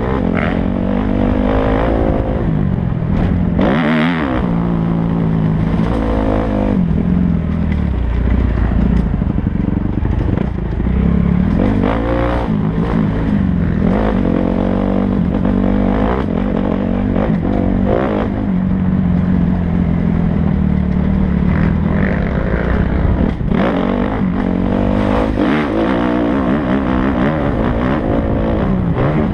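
Kawasaki KX250F single-cylinder four-stroke motocross bike engine revving up and down over and over as it is ridden hard, the pitch climbing and dropping with throttle and gear changes.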